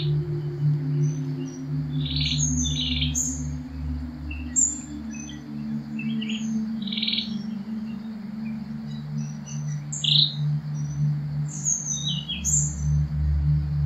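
Birds chirping in short, high calls scattered throughout, some in quick pairs, over a low, steady drone of ambient music.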